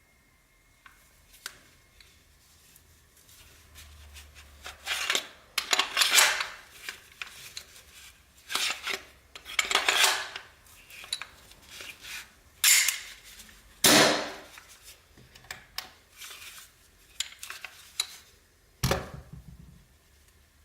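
Metallic clicks and short scraping clatters from handling a gas blowback airsoft pistol, with no shots fired. After a quiet start, the sounds come in irregular bursts, the loudest around the middle.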